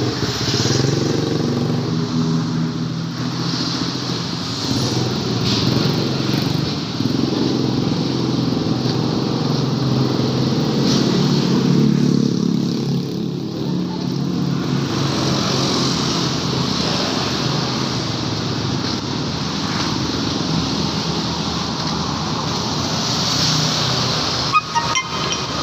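Small 50 cc mini trail motorcycle engine running during a test ride, its pitch rising and falling as the throttle changes. A few sharp clicks near the end.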